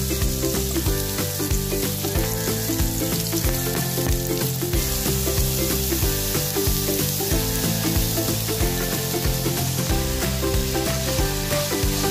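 Julienned carrots sizzling as they stir-fry in a wok, turned over with a wooden spatula: a steady frying hiss.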